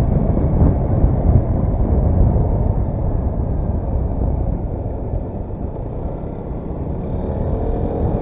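Daelim S3 scooter riding at road speed: steady wind rush and road noise on the rider's microphone with the engine underneath, easing slightly for a moment, then a faint steady engine hum coming through near the end.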